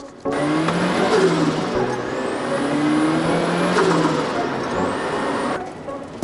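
Turbocharged Mazda MX-5 Miata engine revving under hard driving, its pitch rising and falling, with a faint high whine gliding up and down. It starts abruptly and drops away shortly before the end.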